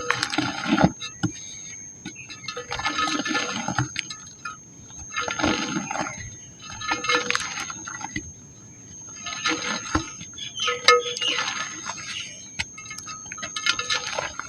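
Dried pink mud (clay) crumbling and crunching, in about seven crackly bursts with sharp clicks, spaced a second or two apart.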